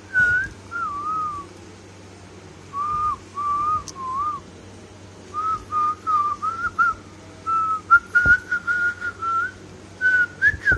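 Whistling: a clear, pure-toned tune in short melodic phrases with pauses between them, the notes gliding up and down.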